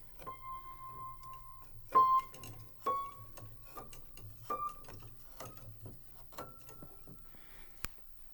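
Aldrich spinet piano played one note at a time, each key struck about once a second and sustaining, the notes climbing step by step up the upper treble. Sharp clicks and knocks of the keys and action come between the notes.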